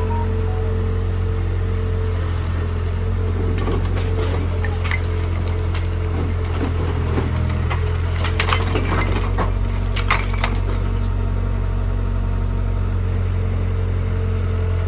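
Wood cracking, splintering and crushing as the old house is torn down, the loudest snaps coming in a cluster between about four and ten seconds in, over the steady hum of a running engine.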